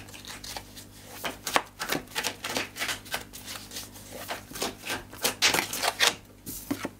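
A deck of tarot cards being shuffled by hand: quick, irregular clicks and flicks of the cards.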